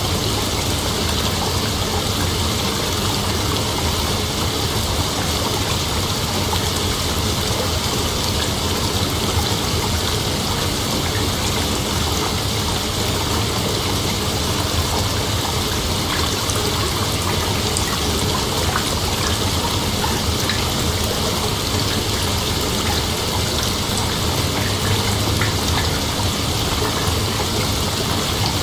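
Night insect chorus forming a dense, unbroken hiss that holds steady throughout, with a low steady hum beneath.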